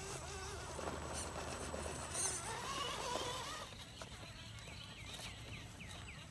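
A Redcat Gen7 scale crawler's 21-turn brushed electric motor and drivetrain whining at low throttle as the truck crawls, the pitch wavering with the throttle. Near the end a bird chirps, a run of short falling notes about three or four a second.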